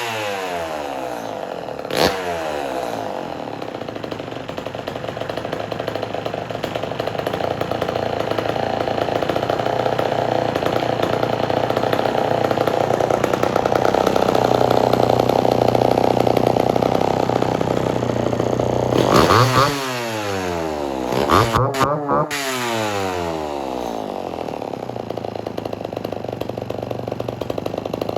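Homelite Super XL two-stroke chainsaw running on its own, newly revived with a new set of points and a new fuel line. It gives a short throttle blip about two seconds in, runs steadily, then is revved sharply three times in quick succession and falls back to idle after each.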